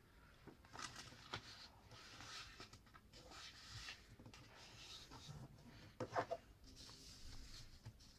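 Faint rustling and crinkling of a sheet of paper being folded and creased by hand, with two sharper crackles about six seconds in.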